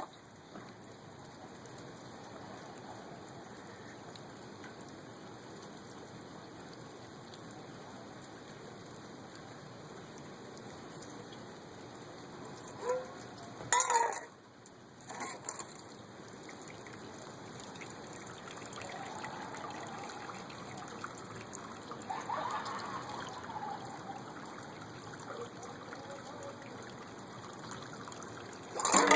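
Steady rain falling, with a few short, louder splashes of water poured out of a dish, about halfway through and near the end.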